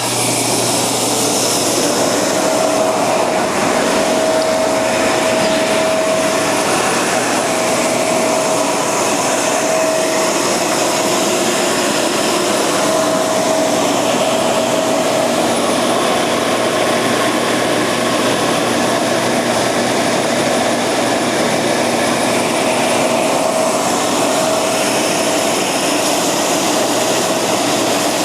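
Edge sander running steadily while the rough band-sawn edge of a solid maple round tabletop, turning on a pivot jig, is sanded against the belt. A faint whine fades in and out over the steady noise.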